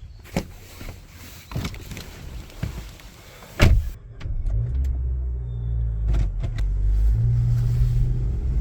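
A few sharp knocks, then from about four seconds in a steady low rumble of a car.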